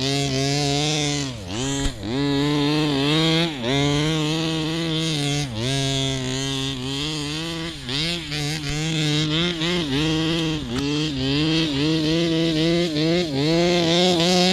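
Radio-controlled model car's engine running hard, its pitch dropping and climbing again every second or two as the throttle is let off and opened up.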